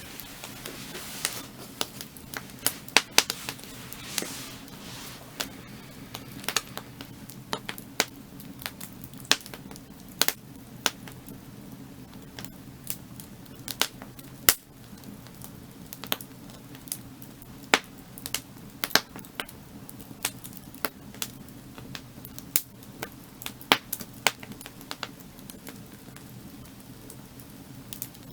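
Burning firewood crackling: sharp, irregular pops and snaps, several a second at times, over a steady low rush.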